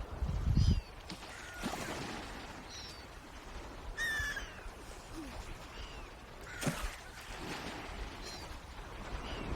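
Birds calling: a string of short, high, downward-sliding notes, roughly one a second, over a low outdoor background. A loud low rumble fills the first second.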